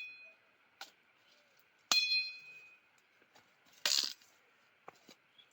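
Sharp metallic clinks: a ringing strike about two seconds in that fades over about a second, a harder dull knock about four seconds in, and a couple of small taps near the end.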